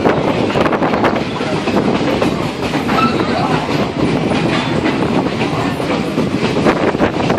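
Passenger train car rolling along the track, heard from on board: a steady rumble of wheels on rails with a scatter of clicks and clacks from the wheels over the rail joints.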